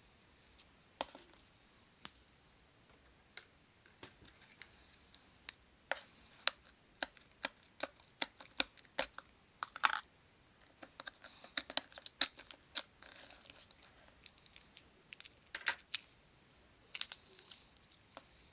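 Close-up handling sounds: irregular sharp clicks, snips and crinkles from working with mini balloons and slime, over a faint steady high whine.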